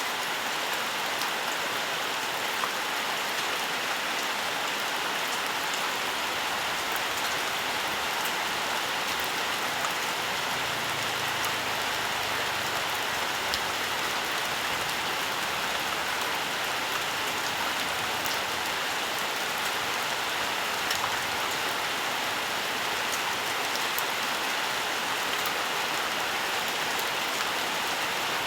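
Steady rainfall, a continuous even hiss of rain with scattered individual drops ticking on surfaces.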